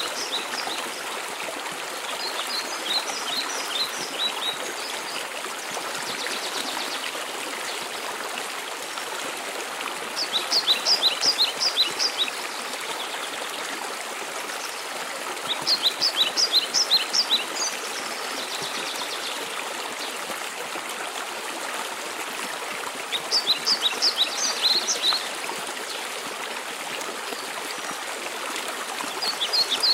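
Steady rush of a mountain waterfall, with a songbird singing short phrases of quick high notes about every six seconds.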